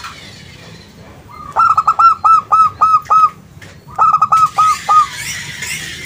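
Zebra dove (perkutut) cooing: a run of about eight quick, clipped coo notes, a short pause, then about five more.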